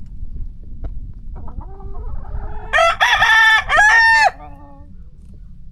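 A rooster crowing once, a loud call of about a second and a half starting near the middle, with softer clucking from the flock around it.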